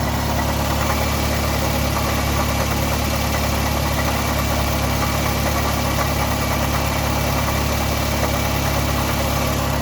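A 2005 Toyota Camry's 2.4-litre four-cylinder engine idling steadily, carrying the running noise that the owner takes for a failing drive-belt tensioner.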